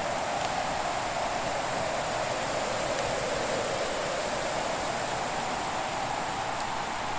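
Fire in a fireplace: a steady, even hiss with a few faint crackles.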